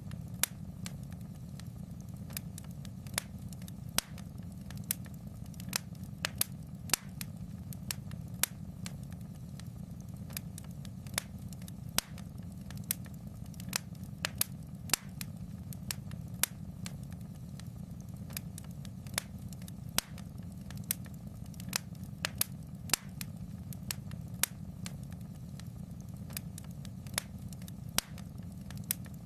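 Fireplace fire crackling: irregular sharp pops and snaps, several a second and some louder than others, over a steady low rumble.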